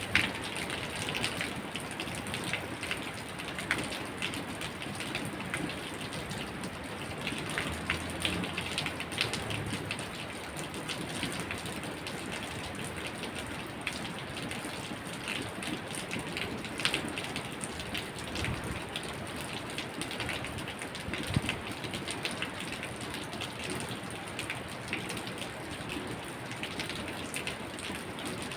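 Steady rain falling, with many separate drops ticking on surfaces through the even hiss.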